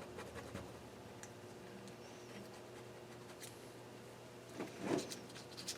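Razor blade scraping built-up residue off a Nissan KA24DE cylinder head: faint, scattered scratches and small clicks, with one louder scrape near the end.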